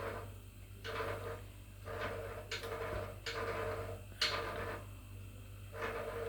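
Kitchen utensils on a pot: about seven short scraping strokes, roughly one a second, each with a brief ring.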